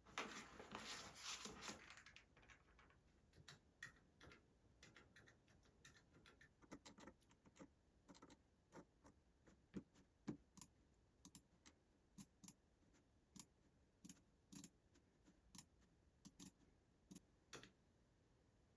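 Faint rustling for about two seconds, then soft, irregular clicks and taps of small objects being handled, a few a second.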